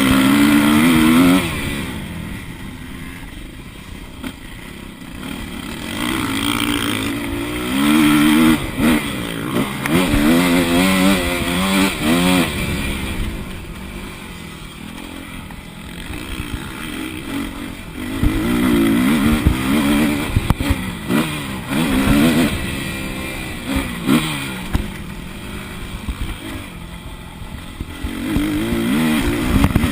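Motocross bike engine heard on board, revving hard and then easing off several times in turn as the throttle is opened and closed, with the pitch rising through each burst. Short knocks and clatter run under it.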